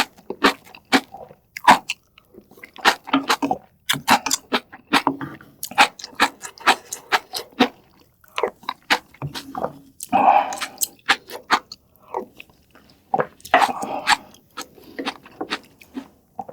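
A person eating close to the microphone: chewing and wet mouth smacks in quick, irregular strokes, with fuller, denser stretches about ten seconds in and again near fourteen seconds.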